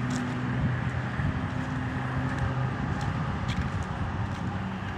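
A motor vehicle's engine humming over a steady hiss, the hum fading out about halfway through.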